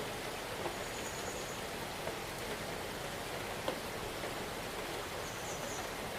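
Steady rain falling: an even hiss with a few separate drops ticking close by. A faint high-pitched chirp sounds twice, about a second in and near the end.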